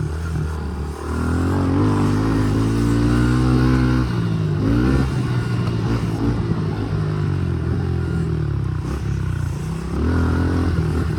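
Honda CRF110 pit bike's small four-stroke single-cylinder engine running under throttle, its pitch climbing steadily for about three seconds, dropping off about four seconds in, then rising again briefly twice.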